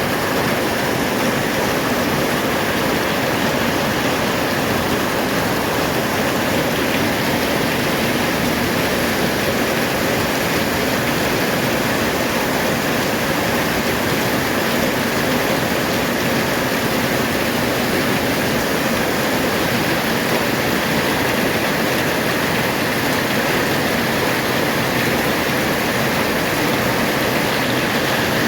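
Heavy rain falling on a corrugated metal roof, a loud, steady, unbroken wash of noise.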